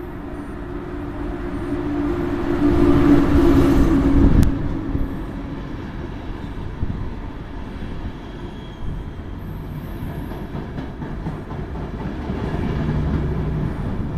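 ÖBB Taurus electric locomotive arriving with an Intercity train, growing louder with a steady hum as it passes close by about three to four seconds in. Then the passenger coaches roll slowly past, wheels rumbling on the rails.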